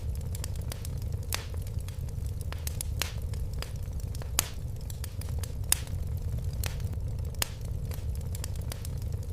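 Fire crackling in a fireplace: irregular sharp pops and snaps, a few louder than the rest, over a steady low rumble.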